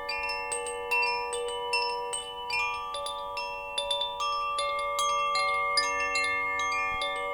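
Metal wind chimes ringing continuously, tubes struck at irregular moments several times a second, each note ringing on and overlapping the others.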